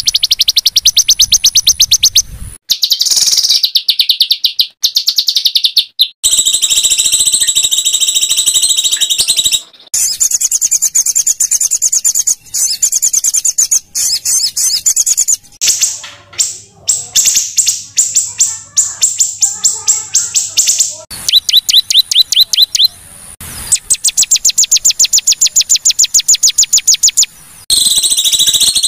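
Small songbird singing rapid, high-pitched trills of sharp repeated notes in phrases several seconds long, with brief gaps between them. These are the rough rapid-fire 'tembakan' phrases of a masteran recording used to train murai batu (white-rumped shama).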